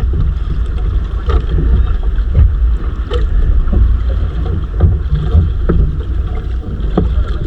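Small fishing boat at sea: a constant low rumble of wind buffeting the microphone and water against the hull, with scattered knocks every second or so.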